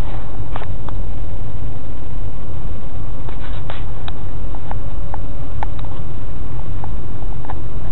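Car driving on an expressway: a loud, steady low rumble of road and engine noise, with scattered light clicks.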